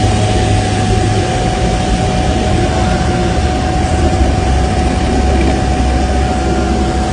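Car wash machinery running with a loud, steady rush of noise, a constant high whine and a low rumble underneath.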